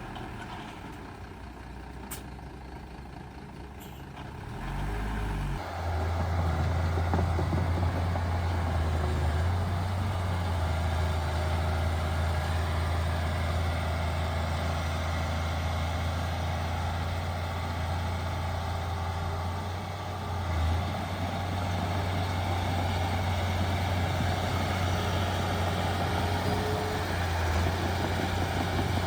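Heavy diesel earthmoving engine running close by, quieter at first and then, about five seconds in, growing loud and holding a steady low drone.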